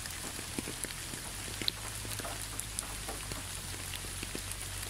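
Recorded steady rain: an even hiss with scattered sharp drop ticks.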